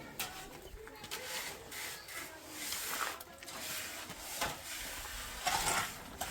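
Irregular rasping scrapes of a hand tool working wet cement mortar, the loudest strokes near the end.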